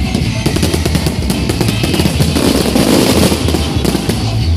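Loud music from a fireworks display's sound system, with a rapid run of fireworks crackling and banging over it.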